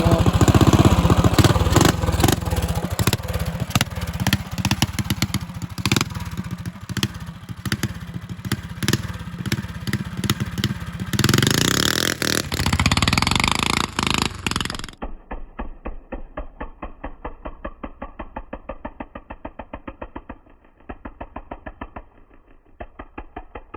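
Mini bike's single-cylinder Tillotson 212 engine running hard under throttle as the bike is ridden, its rapid firing pulses loud. About two-thirds of the way in, the sound turns thinner and quieter, with the engine's regular pulses still going.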